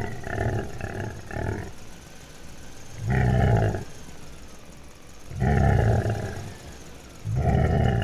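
Loud animal calls, roar-like: three quick short calls at the start, then three longer calls of under a second each, spaced about two seconds apart.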